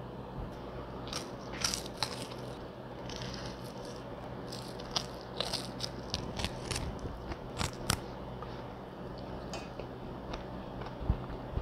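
Close-up biting and chewing of crispy fried chicken: a string of short, crisp crunches, most of them in the first eight seconds, with mouth sounds between.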